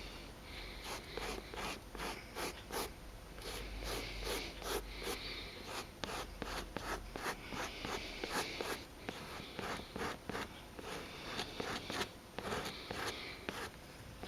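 Leather filler being spread and worked over cracked chair leather, rapid rubbing and scraping strokes, a few each second.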